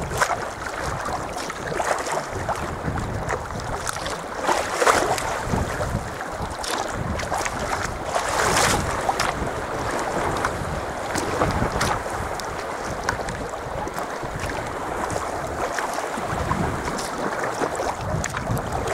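Water splashing and lapping around a sea kayak under way, with wind rumbling on the microphone and a louder splash every few seconds.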